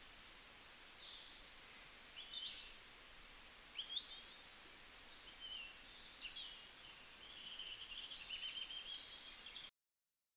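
Birds chirping in short, high, rising notes over a faint steady hiss of outdoor ambience; the sound cuts off suddenly near the end.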